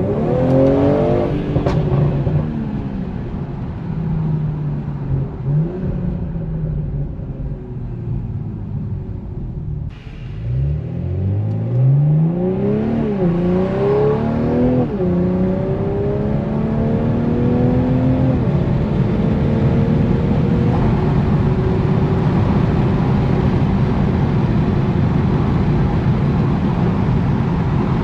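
BMW M340i's turbocharged straight-six engine revving briefly. About ten seconds in it pulls hard through three upshifts, the pitch climbing and dropping back at each shift, then settles into a steady cruise.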